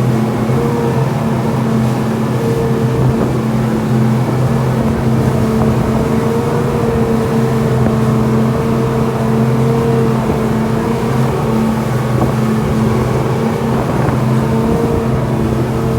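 Tour boat's engine running steadily at cruising speed, an even drone that holds one pitch throughout.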